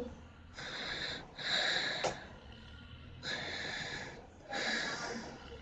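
A person breathing close to the microphone: four noisy breaths in and out, each about a second long.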